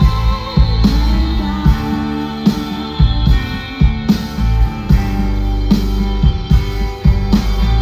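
Live rock band playing an instrumental passage without vocals: guitars over bass and a drum kit keeping a steady beat.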